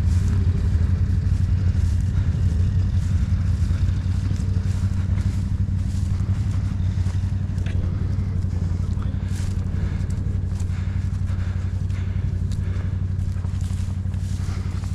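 ATV engine idling steadily, a low even hum, with a few faint light knocks scattered over it.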